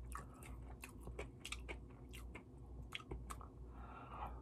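A person chewing a mouthful of malatang, with small wet mouth clicks and smacks at irregular intervals.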